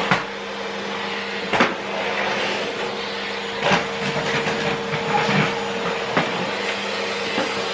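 Vacuum cleaner running with a steady motor whine, broken by a few short knocks.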